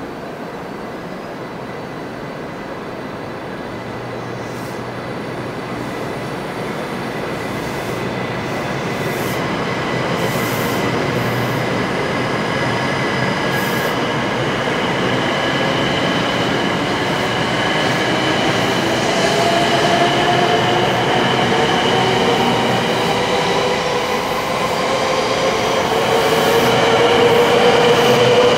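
700 Series Shinkansen pulling away from the platform: the train's running noise grows steadily louder, and in the second half the traction motors whine, rising in pitch as the train picks up speed.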